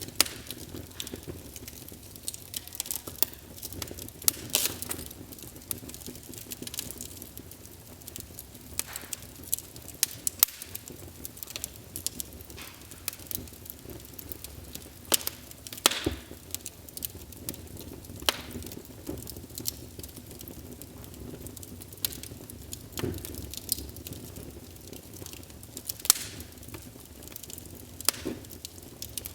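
Wood fire burning in a fireplace, crackling with irregular sharp pops over a steady low rush.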